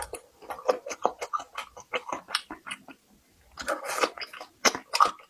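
Close-miked chewing and mouth sounds of a person eating, a quick irregular run of smacks and crunches with a short pause about halfway through.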